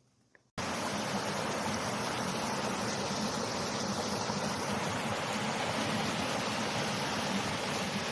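Mountain valley stream flowing, a steady rush of water that cuts in abruptly about half a second in after near silence.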